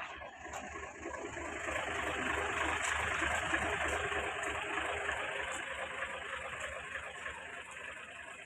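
Motor vehicle noise, a rushing sound over a low throb, swelling over the first few seconds and slowly fading again.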